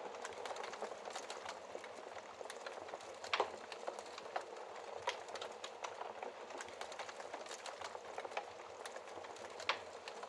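Wood fire burning in a fireplace: a steady hiss of flames with frequent small crackles and pops, the sharpest pop about three and a half seconds in and another near the end.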